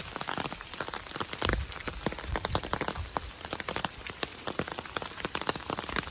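Rain falling, with many close drops striking irregularly, several a second.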